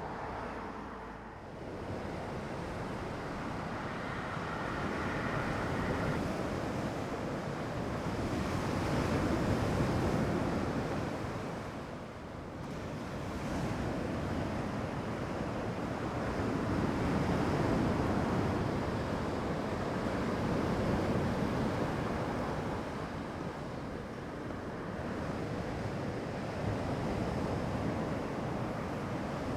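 Sea waves breaking and washing up on the shore, swelling and ebbing in slow surges every several seconds, with some wind.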